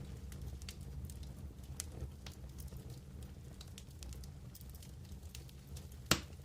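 Wood campfire crackling, with scattered small pops over a steady low rumble and one loud pop near the end.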